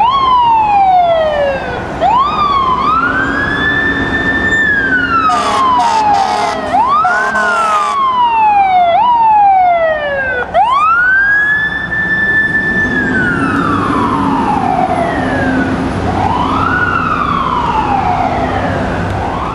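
Fire engine siren winding up, holding its pitch, then falling away, over and over, with a steady horn blast sounding under it from about five to eight seconds in.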